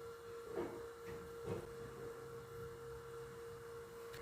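Faint steady hum with two soft taps, a spoon against the pan as spoonfuls of powdered milk go in, about half a second and a second and a half in.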